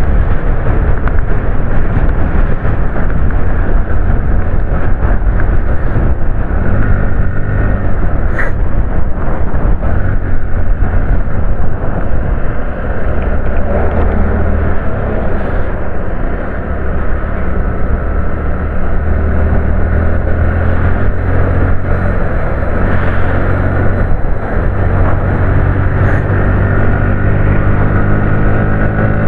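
Bajaj Pulsar NS125's single-cylinder engine running steadily at highway cruising speed, heard from the saddle with wind rushing over the microphone. The engine note rises near the end as the bike picks up speed.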